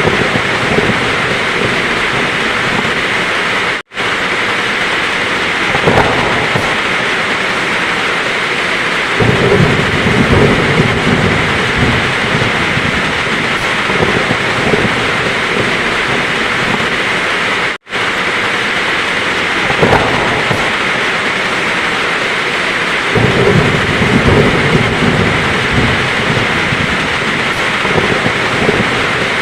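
Heavy rain falling steadily, with low rolls of thunder rumbling twice for a few seconds each. The sound cuts out for an instant twice, about 14 seconds apart, at the seams of a short looped recording.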